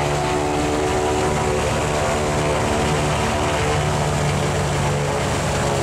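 The Che-29 seaplane's twin Rotax 912 engines and propellers running steadily on the ground during pre-flight engine checks, heard from inside the cabin.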